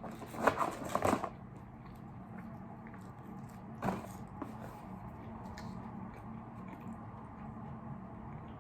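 Crunchy bites into crispy fried food: a quick cluster of loud crunches about half a second in and another single crunch about four seconds in, with faint chewing clicks between.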